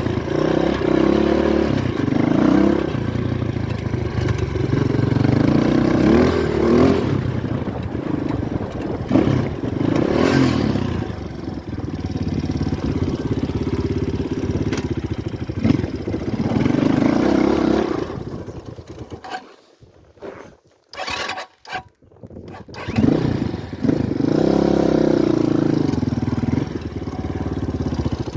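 The RVM CZ 250T's four-stroke 250 cc engine running under way, its revs rising and falling repeatedly as the bike is ridden. About two-thirds of the way through, the sound nearly cuts out for a few seconds, then the engine is heard again.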